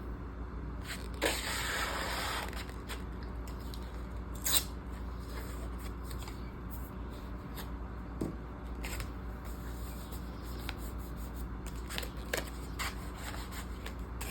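Paper and sticker sheets being handled: a rustling, scraping slide for about a second near the start, then scattered light taps and clicks.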